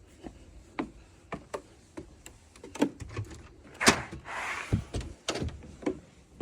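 Irregular knocks and clicks of handling and movement, loudest with a sharp knock about four seconds in, followed by a short scraping rush.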